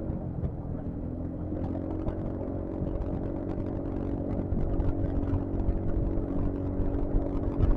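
Yamaha XMAX scooter's single-cylinder engine running steadily at cruising speed, with a low wind rumble on the microphone.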